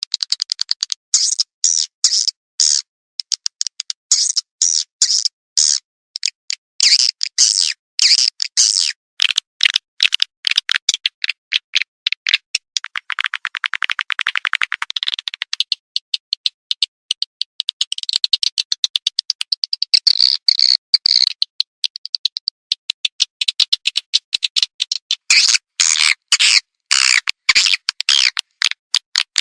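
Swiftlet calling-sound recording, the lure played to draw edible-nest swiftlets to a nesting house: rapid, high-pitched chattering chirps and clicks in quick runs, with a dense buzzing trill about halfway through and a warbling twitter a few seconds later.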